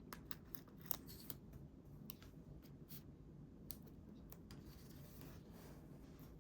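Scissors snipping paper: a series of quiet, crisp snips, quick at first, then more spaced out.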